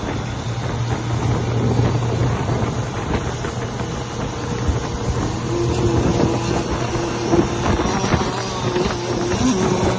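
Radio-controlled offshore racing boats running on the water, a steady motor drone under wind noise on the microphone. About halfway in, a higher, steady motor tone comes in as a boat runs closer.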